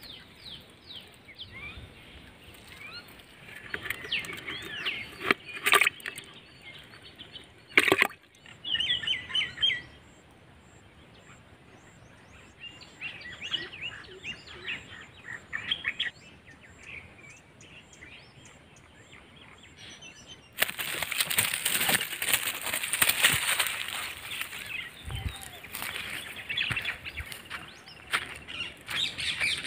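Small birds chirping and calling over and over, with two sharp knocks early on and a louder stretch of chirping over a hiss in the last third.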